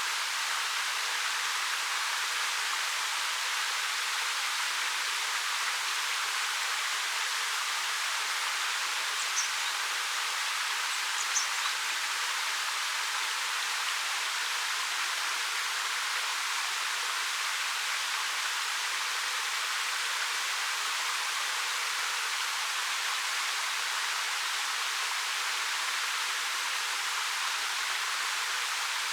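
Steady rushing of a 13 m waterfall pouring over rock, an even hiss with no change. Two faint, brief high chirps come a little before the middle.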